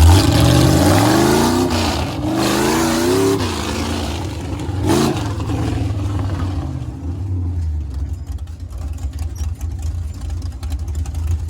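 Monster truck engine revving, its pitch climbing in waves over the first few seconds with another short rev about five seconds in, then dropping to a lower, steady run.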